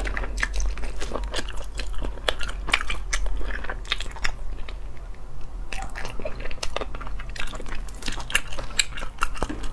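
Close-miked chewing and biting of braised sea snail meat, with many short irregular mouth clicks and smacks throughout.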